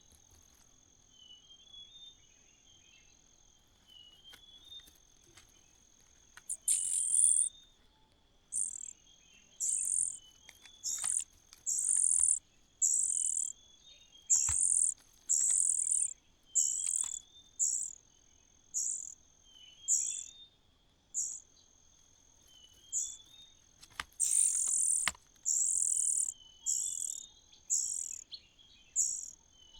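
Nestlings begging in the nest: loud, very high, hissy calls in a series about one a second, starting several seconds in. Beneath them runs a steady high-pitched whine, with a soft falling run of notes every few seconds.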